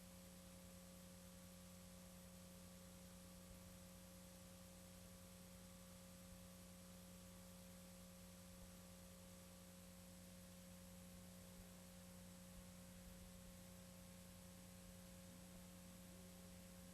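Near silence: a faint steady hum with a light hiss, typical of VHS playback noise under a silent warning screen.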